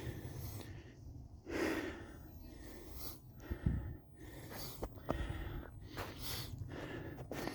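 Footsteps crunching in snow at an irregular walking pace, with a hiker's breathing.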